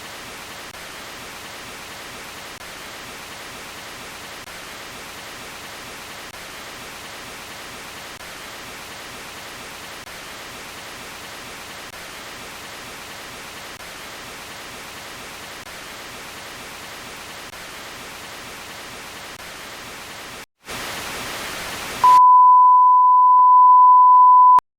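Steady static hiss, like white noise from an untuned set, for about twenty seconds. It cuts out briefly and comes back louder, then gives way near the end to a loud, steady, single-pitch test-tone beep lasting about two and a half seconds.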